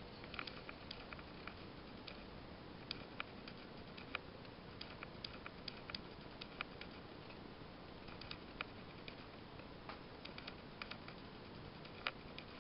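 Faint, irregular light clicks and ticks, a few a second and uneven in strength, over a steady low hiss.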